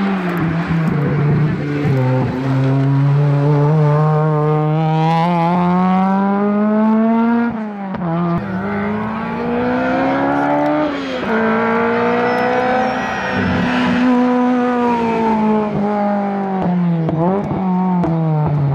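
Hillclimb race car's engine at full throttle, its pitch climbing through each gear and dropping sharply at the upshifts about seven and eleven seconds in, then falling off and picking up again near the end as the driver lifts and gets back on the power.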